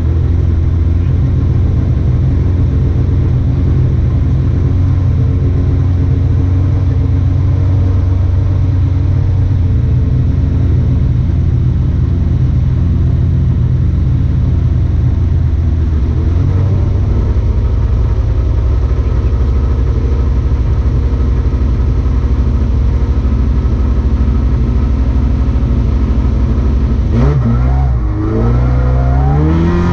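Rally car engine running hard at speed, a steady drone for most of the stretch. Near the end the sound dips briefly, then the revs climb in quick rising sweeps as the car accelerates.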